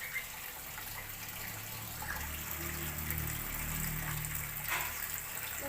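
Steady rushing of running water, with a low hum underneath.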